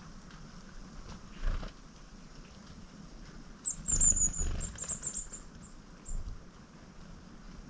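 A small wild bird gives a quick run of very high, thin calls starting a little under four seconds in, over a few low thumps and rumbles.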